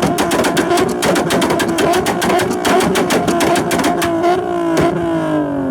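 A tuned car engine held at high revs on a two-step launch limiter, popping and crackling rapidly and evenly. Near the end the pops stop and the revs fall away.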